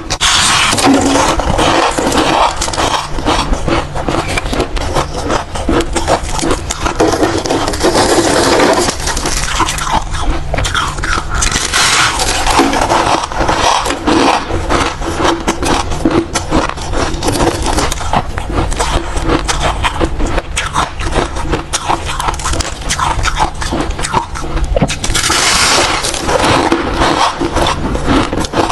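Bites and crunching chews of white ice: a dense crackle of cracking and grinding, with several louder bites, one near the start and one near the end.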